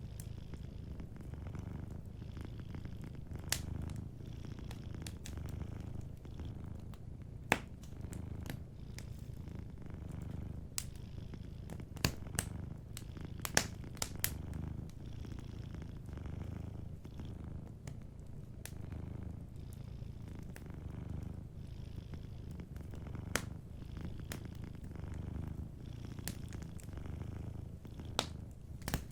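A cat purring steadily in slow, rhythmic swells, over a wood fire that crackles with sharp pops now and then. The loudest pops come about seven seconds in and in a cluster around twelve to fourteen seconds.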